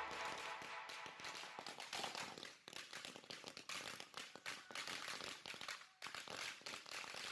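Faint, rapid, irregular crackling pops of firecrackers being set off, like a string of small crackers going off.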